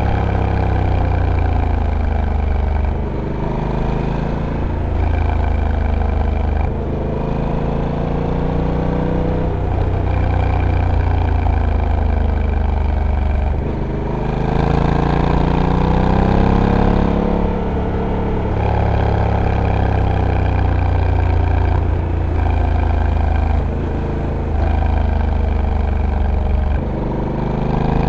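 Honda Africa Twin's 1084 cc parallel-twin engine on a dual-clutch transmission under way, its note rising and falling again and again as the rider accelerates and eases off, with brief dips in level every few seconds.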